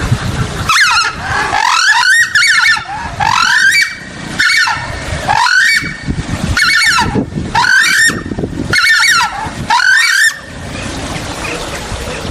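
Screamer giving a series of loud, harsh calls, about one a second, which stop about ten seconds in.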